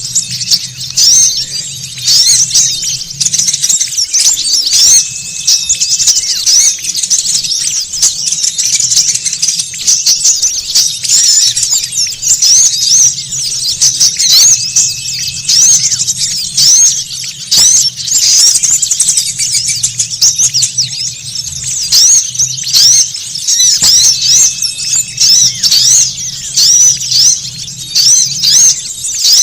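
A busy chorus of many small songbirds chirping and twittering in rapid, overlapping high notes. It is a lure call played to draw small wild birds in.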